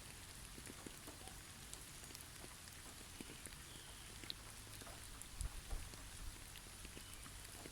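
Faint steady patter of snow falling on snow-covered trees, with scattered small ticks throughout and a few low thumps a little past the middle.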